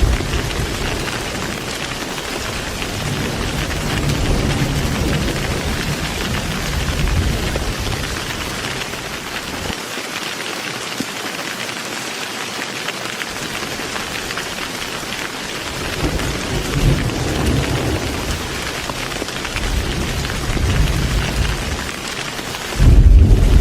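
Heavy rain falling in a steady dense hiss, with thunder rumbling low in the background, swelling and fading several times. Right at the end a much louder roll of thunder breaks in.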